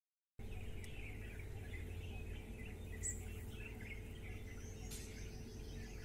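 Small birds chirping and calling, scattered short notes with one sharp high chirp about halfway through, over a steady low background rumble.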